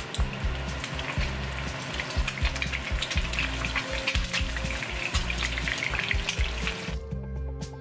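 Eggs deep-frying in hot oil in a wok, sizzling and crackling with many sharp pops of spitting oil as they are turned over with chopsticks. The frying cuts off suddenly about seven seconds in.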